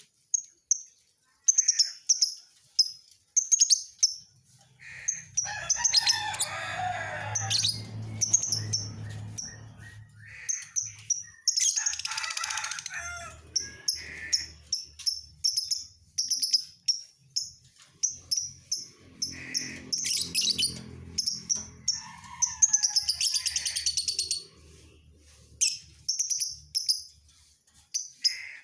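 Lovebird chirping in quick runs of short, high-pitched chirps, broken by several longer, harsher chattering stretches.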